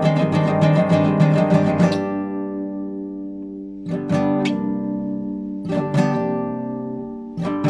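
Classical guitar being improvised on: a quick run of plucked notes for about two seconds, then a few strummed chords a couple of seconds apart, each left to ring and fade.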